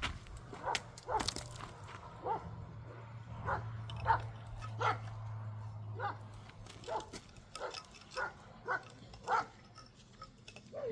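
A dog barking and yipping in short calls, about a dozen at uneven intervals, over a low steady hum that fades about halfway through.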